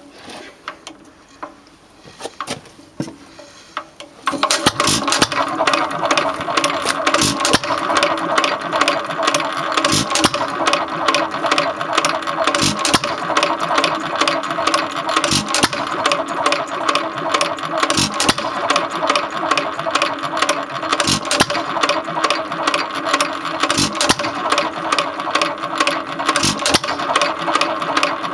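1.5 hp Hercules hit-and-miss stationary engine starting about four seconds in and then running steadily: a fast mechanical clatter of valve gear and igniter, with a heavier beat every two to three seconds.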